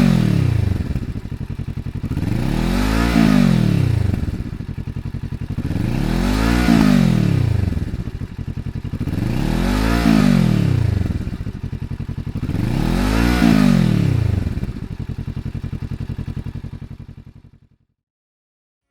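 Kawasaki Z650RS parallel-twin engine free-revving through a Yoshimura Straight Cyclone Duplex Shooter exhaust: five blips of the throttle, each rising and falling back to idle, about every three and a half seconds. The sound cuts off shortly before the end.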